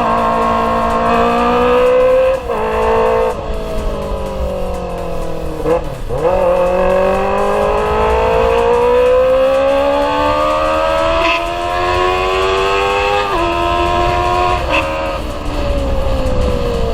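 Kawasaki ZX-25R's 250 cc inline-four running through an Akrapovic GP Evolution exhaust while the bike accelerates through the gears. The pitch climbs steadily in each gear and drops sharply at each shift, about five times, with one deep dip about six seconds in before it climbs again.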